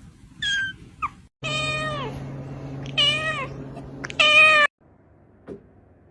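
Domestic cat meowing several times: a short high call and a brief chirp, then three longer meows, the last stopping abruptly.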